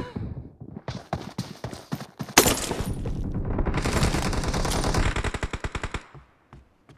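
Video game gunfire: scattered shots, a loud single crack about two and a half seconds in, then a long automatic burst of rapid, evenly spaced shots that cuts off about six seconds in, followed by a few faint ticks.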